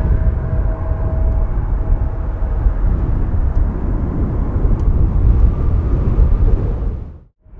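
Aircraft engines running with a steady whine, under heavy wind rumble on the microphone. The sound cuts out briefly near the end.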